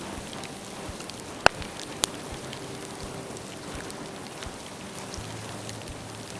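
Bonfire of dead bamboo crackling with a steady patter of small snaps. Two loud, sharp pops come about a second and a half in and again half a second later.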